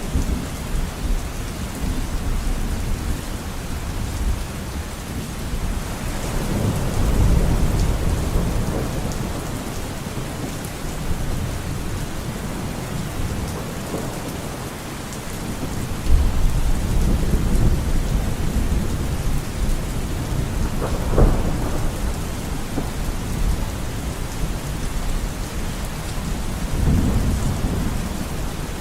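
Steady rain with thunder rumbling low several times, and one sharper clap about two-thirds of the way through.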